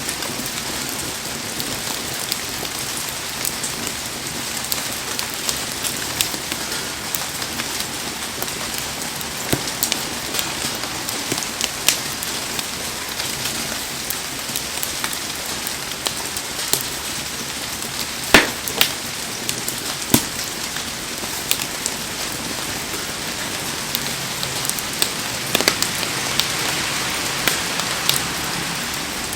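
Heavy rain falling steadily, with scattered sharp crackles and pops through it, the loudest about 18 seconds in.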